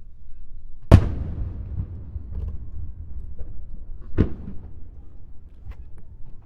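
Aerial firework shells bursting: two loud bangs about three seconds apart, the first the louder, each followed by a low rumbling echo, with a couple of faint crackles near the end.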